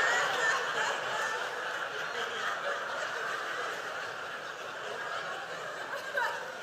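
Audience laughing, loudest at the start and slowly dying down.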